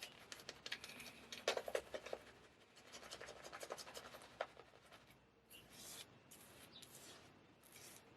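Straight razor scraping through stubble in short strokes: a dense crackle of cutting, then several brief hissing strokes.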